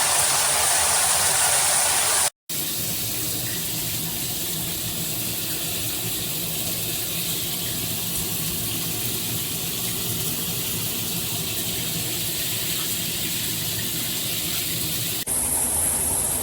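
Shower water spraying steadily from an SR SUN RISE rain shower system, a continuous rushing hiss. It cuts out abruptly about two seconds in and comes back, then changes character suddenly near the end, like separate takes of the water running.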